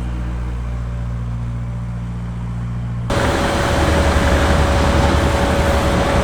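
Railway train sounds: a low, steady engine hum, then an abrupt switch about three seconds in to louder rushing noise with a steady whine, as of a train running past.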